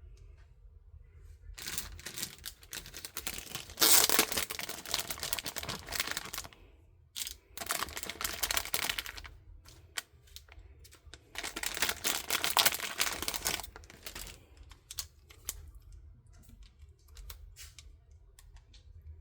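Plastic packaging crinkling and rustling in three long bouts as small tools are handled, with scattered light clicks of small plastic pieces between and after.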